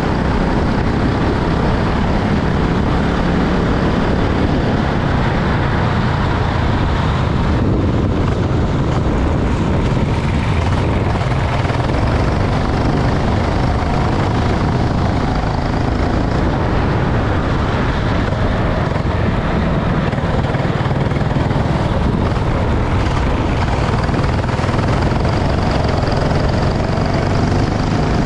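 Go-kart engine running hard at racing speed, its note rising and falling with the throttle and climbing in pitch near the end.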